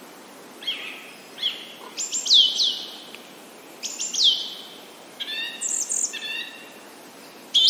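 Birds chirping in short phrases: sharp downward-sweeping whistles and clusters of quick notes every second or so, over a steady background hiss.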